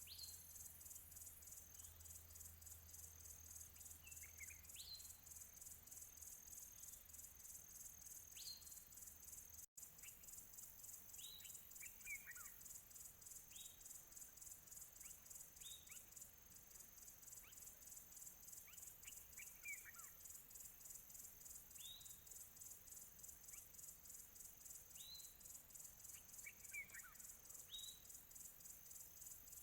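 Faint nature ambience: insects trill continuously in a high, fast-pulsing chorus, while birds give short chirps every couple of seconds, some quick rising notes and some falling ones. The sound drops out for an instant about a third of the way through.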